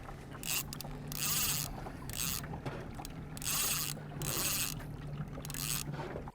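Boat motor running with a steady low hum, under about six short bursts of hissing water splash against the hull.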